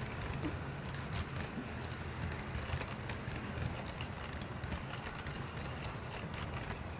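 HO scale model freight train rolling over the layout: a steady low rumble from the running gear, with irregular clicking as the wheels pass over the rail joints.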